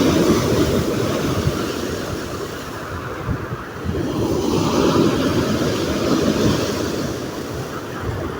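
Black Sea storm waves breaking on the beach, one surge at the start and another building about halfway through, with wind buffeting the microphone.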